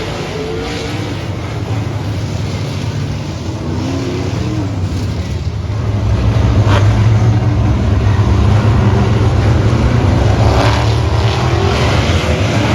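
Dirt-track race car engines running at speed, a steady drone that grows louder about six seconds in.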